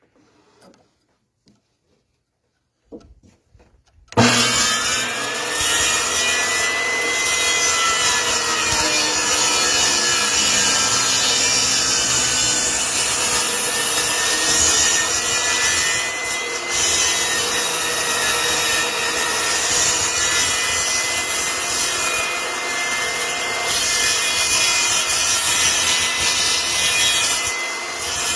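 Power saw, most likely a table saw, switched on about four seconds in: its whine rises as it comes up to speed, then it runs loud and steady while cutting wood.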